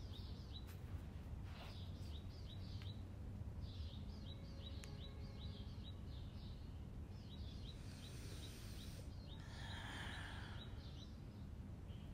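A small bird chirping in quick runs of short high notes, about three or four a second, over a faint steady low hum. A soft rushing hiss swells briefly near the end.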